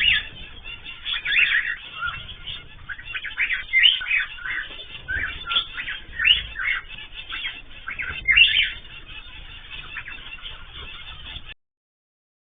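Caged ornamental birds chirping and squawking in many short, overlapping calls, with louder calls every second or two. The sound cuts off abruptly near the end.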